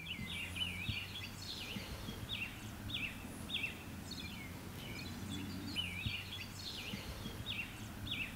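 Birds chirping, a steady series of short slurred whistled notes about two a second, over a faint steady low hum.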